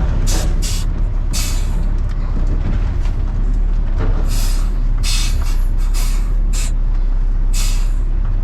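Truck engine running steadily with a low rumble, heard from inside the cab, under several short bursts of hissing air.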